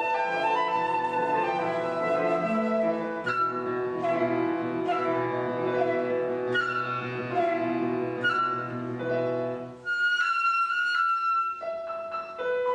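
Concert flute and piano playing a slow classical duet: a flute melody over flowing piano accompaniment. About ten seconds in, the piano's low notes drop away, leaving a held flute note, and the piano comes back in with a few sparse notes near the end.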